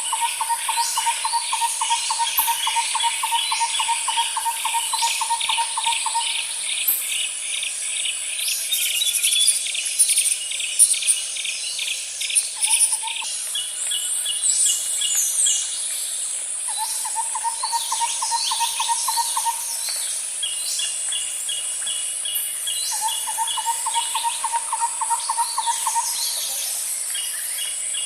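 Outdoor nature ambience: a steady high-pitched insect drone under a low, rapid trill that repeats in bouts of a few seconds, with birds chirping throughout.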